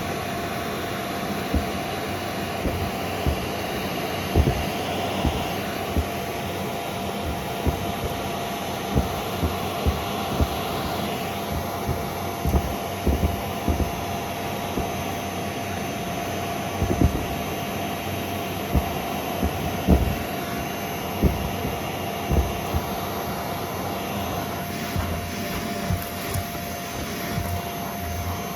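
Vacuum cleaner running steadily with a held motor whine, with irregular clicks and knocks of crunchy debris rattling up the hose.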